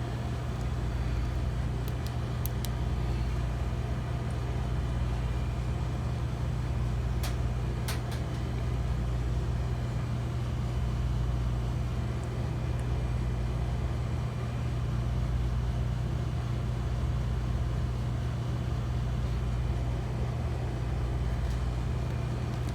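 Half-horsepower refrigeration condensing unit of a two-door T49 reach-in refrigerator running steadily, a constant low hum, with a few light ticks about two and eight seconds in.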